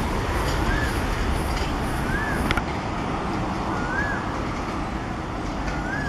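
Passenger train rolling away, a steady rumble of coach wheels on the track slowly fading. A short rising-and-falling call repeats about every second and a half over it.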